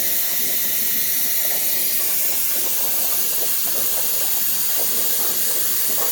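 CNC plasma table's torch cutting steel plate: a steady, unbroken hiss from the plasma arc and its air jet.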